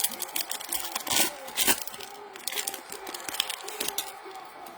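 Trading-card packs and cards being handled: quick crinkling of a foil wrapper and the clicks and rustle of cards, busiest about a second in.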